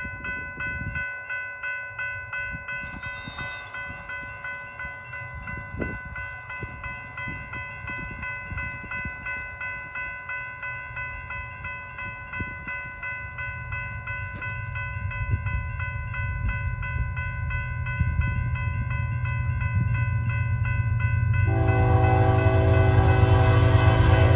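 Railroad grade-crossing warning bell ringing in steady, even strokes while an approaching train's rumble grows louder. About 21 seconds in, the locomotive's horn sounds a loud, held chord over the bell.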